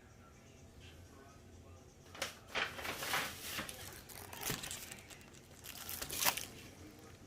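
Plastic packaging crinkling and rustling in short bursts as firework packs are handled, a few times over several seconds.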